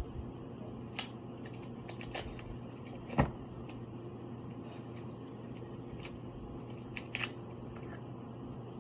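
Seafood boil being eaten: a handful of sharp cracks and crunches as shellfish is broken open and chewed, the loudest about three seconds in, over a steady low hum.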